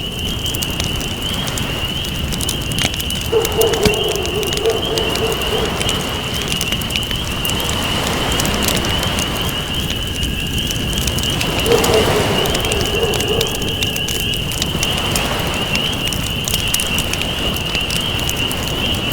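Campfire crackling with sharp pops over a low, steady rush of surf. A dove coos twice, a few seconds in and about midway, against a continuous high-pitched trill.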